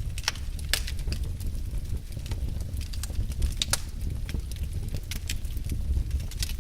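Wood fire burning in a fireplace: a steady low rumble of flames with irregular crackles and pops, a few of them sharper.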